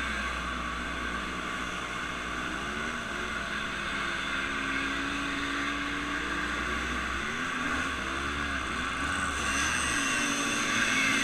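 An engine running under way, its pitch rising and falling a little, over a steady rushing noise.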